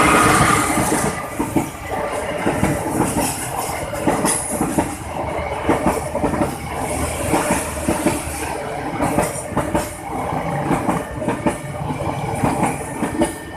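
Kerta Jaya passenger train rolling past close by, its carriage wheels clacking over the rail joints in a continuous run of knocks over a steady rumble. It is loudest right at the start.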